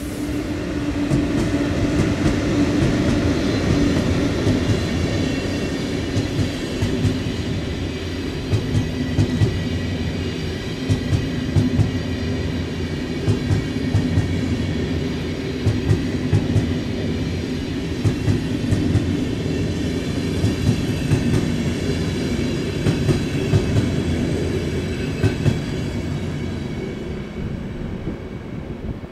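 Train passing close by, its wheels clacking over rail joints in a long, uneven run of clacks over a steady rumble, fading toward the end.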